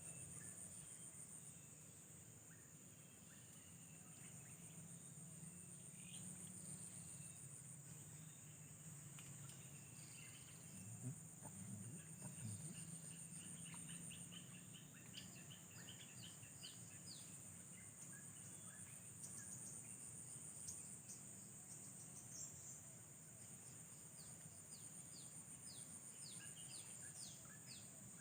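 Faint, steady high-pitched drone of insects such as crickets or cicadas, with many short, quickly falling bird chirps in the second half and a couple of soft low knocks near the middle.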